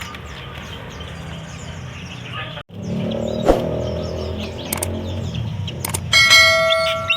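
Many caged songbirds chirping over a steady background hum. About six seconds in, a loud metallic ring sounds and fades over about a second.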